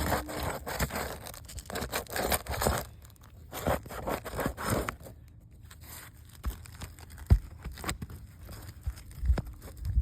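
Roof shingles being scraped and torn as they are worked loose from the roof, with a few sharp knocks in the second half.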